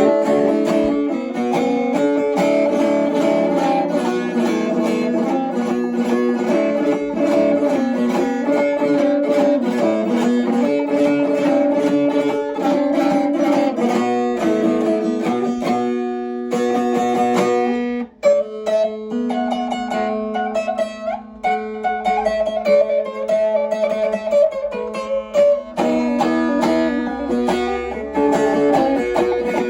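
Double-necked saz being played: a plucked melody of quick, running notes. It breaks off briefly about eighteen seconds in, then goes on.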